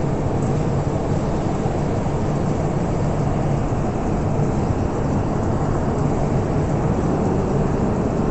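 Moscow Metro train running, a steady loud rumble.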